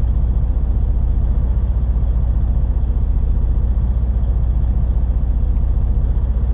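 Diesel semi-truck engine running with a steady low drone.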